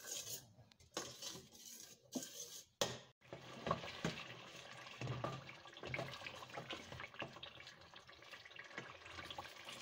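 Beef in oil and tomato masala frying faintly in a stainless steel pot, with small scraping and knocking sounds from a wooden spoon stirring it against the pot, broken by a few brief dropouts.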